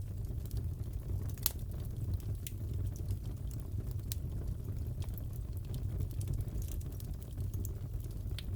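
Crackling fireplace: a steady low rumble of burning logs with irregular sharp pops and snaps scattered through it, one a little louder about a second and a half in.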